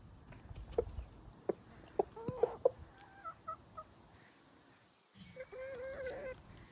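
Chickens clucking: short clucks through the first few seconds, then one longer wavering call near the end.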